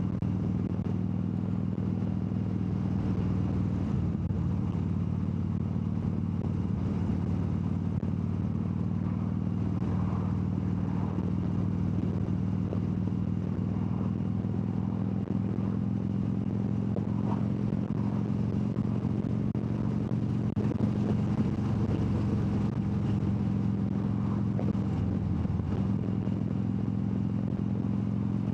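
Harley-Davidson V-twin motorcycle engine running at a steady cruise, a low, even engine note with no revving or gear changes.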